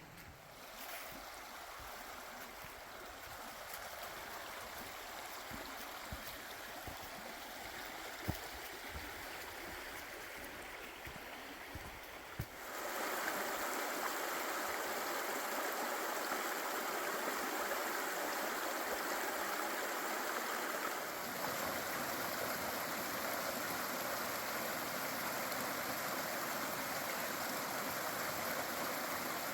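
Creek water running: a faint steady rush with a few sharp ticks, then about twelve seconds in it jumps louder to a fuller, steady rush of moving water.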